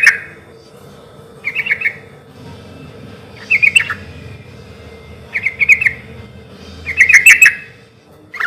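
Yellow-vented bulbul (trucukan) singing loudly: short phrases of quick chirping notes, repeated about every two seconds, five times.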